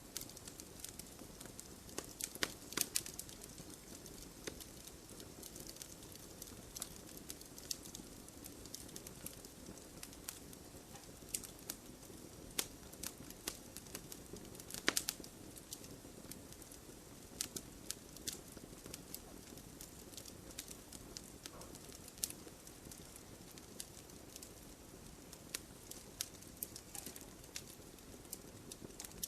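Wood fire burning in a fireplace: a low steady hiss with irregular sharp crackles and pops from the burning logs. A few louder pops come about two to three seconds in and again about halfway through.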